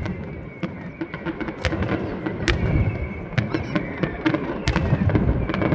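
Fireworks display: dense crackling and popping of aerial shells over a low rumble, with a few sharper, louder bangs scattered through.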